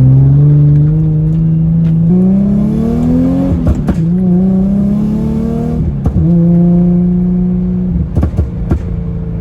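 Straight-piped Nissan 350Z V6 exhaust accelerating through the gears: the engine note climbs, drops at shifts about 4 and 6 seconds in, then holds steady. Sharp exhaust pops come at the shifts and again in a quick cluster near the end.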